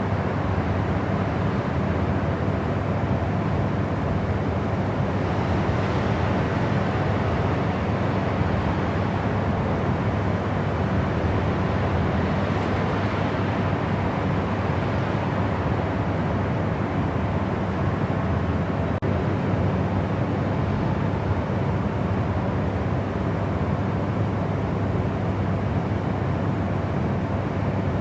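Steady, unbroken white-noise sleep track: an even rush of noise weighted toward the low end, with a dull rumble and little hiss.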